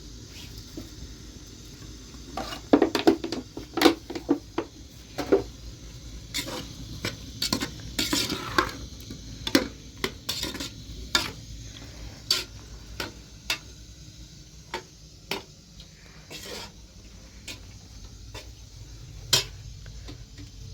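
Dishes and utensils clinking and scraping: a quick run of sharp clinks about two and a half seconds in, then scattered knocks, with one louder clink near the end, over a steady low rumble.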